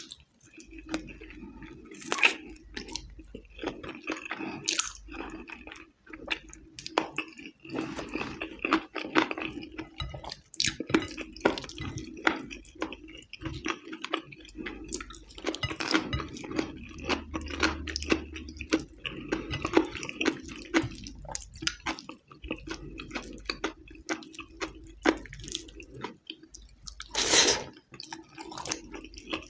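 Close-miked chewing and wet mouth sounds of a person eating oily rice and chicken in red chilli sauce by hand: many small smacks, clicks and squishes. One louder, longer wet sound comes near the end.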